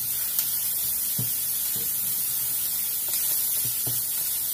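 Sliced mushrooms with garlic and onion sizzling in oil in a frying pan, a steady hiss, with a few soft knocks and scrapes of a spatula stirring them.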